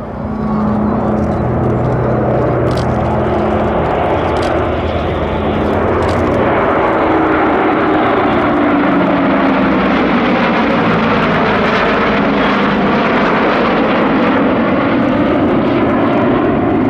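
Lockheed Super Constellation's four Curtiss-Wright R-3350 18-cylinder radial engines droning in a flyby. The engine tones drop in pitch about six to nine seconds in as the aircraft passes, and a rushing noise grows afterwards.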